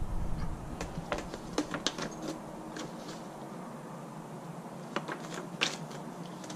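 Paper handouts and small items being handled: scattered light rustles and clicks, with a couple of sharper clicks about five and five and a half seconds in.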